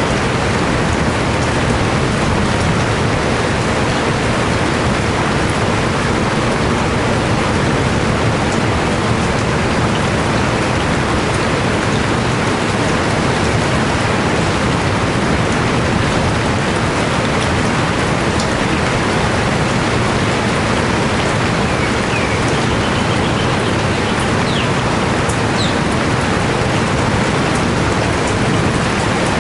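Steady rainfall, an even hiss of rain with no let-up, and a few faint high chirps in the last third.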